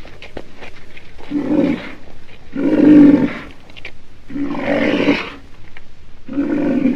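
Lion roaring: a series of four deep calls, each under a second, coming every one and a half to two seconds, the loudest about three seconds in.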